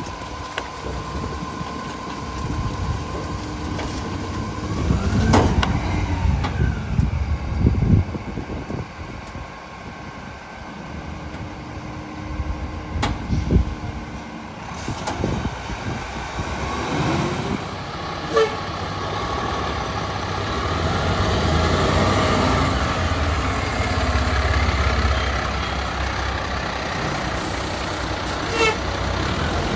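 Heil PowerTrak rear-loader garbage truck on an International HV chassis working: its diesel engine running, growing louder for a long stretch in the second half, with several sharp clanks along the way.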